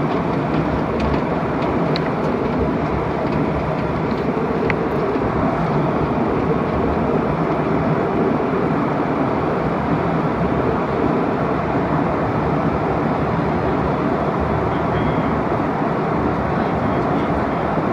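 Steady roar of a jet airliner heard from inside the passenger cabin: engine and airflow noise, even and unchanging.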